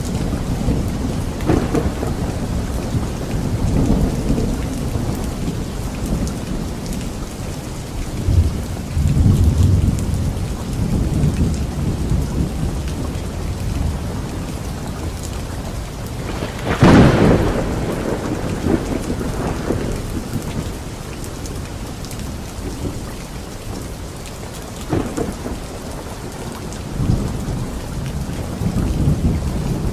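Thunderstorm with steady rain and rolling thunder. A sharp, loud thunderclap comes about seventeen seconds in, with lower rumbles before and after it.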